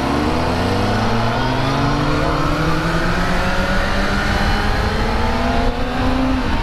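Kawasaki ZX-6R's inline-four engine accelerating, its pitch climbing steadily for about six seconds and then dropping at an upshift near the end, with loud wind noise rushing over the microphone.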